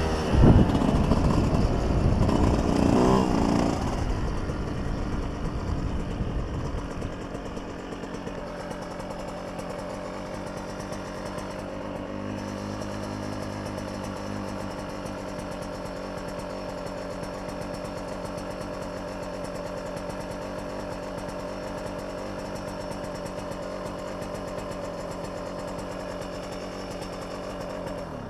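Dirt bike engine, loud at first and fading over the first several seconds, then running steadily at a lower level.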